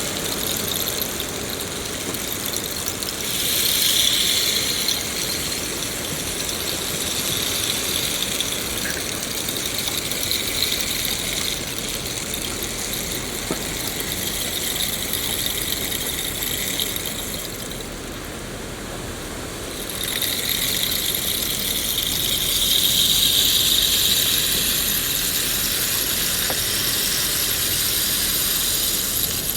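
Steady rain falling, a continuous hiss that swells twice, a few seconds in and again past the middle, with a brief lull just before the second swell.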